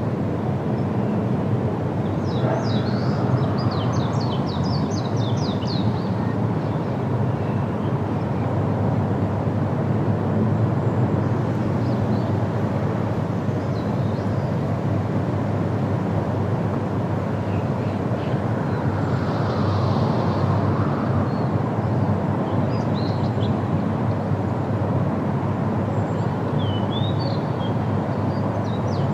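Steady wind rushing through forest leaves, with small birds chirping over it: a quick run of about a dozen calls a few seconds in, and a few more near the end.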